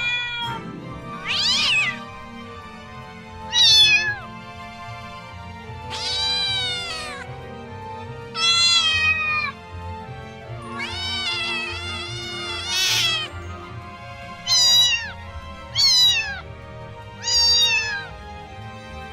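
Kittens meowing: about nine separate meows, each rising then falling in pitch, some short and one long, over steady background music.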